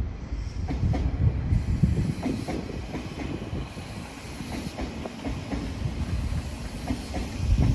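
Odakyu Line electric commuter train passing, a low rumble with its wheels clacking over the rail joints. No horn is sounded.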